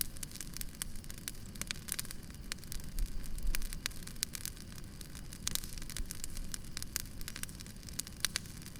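Campfire crackling: frequent irregular sharp pops and snaps of burning wood over a steady low rumble.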